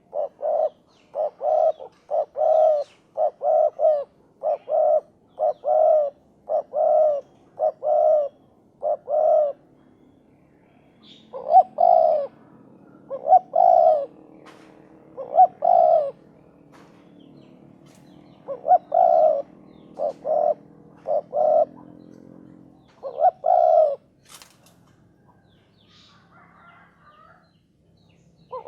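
Spotted dove (derkuku) cooing. A fast, even run of short coos fills the first ten seconds, then the coos come in short groups with pauses between.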